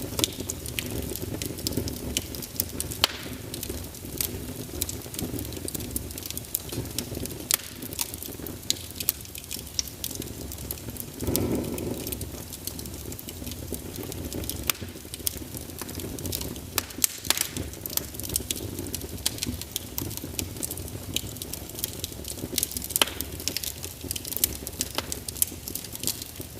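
Wood fire burning in a fireplace: logs crackling and popping in sharp, irregular snaps over a steady low rumble of flame. The rumble briefly swells louder about halfway through.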